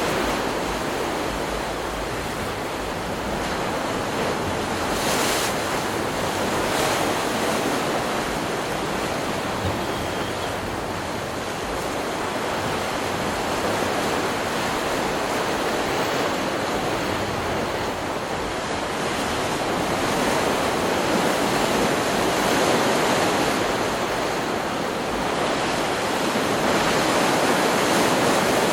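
Ocean surf: waves breaking and washing up a beach in a steady wash that swells and eases slowly every several seconds.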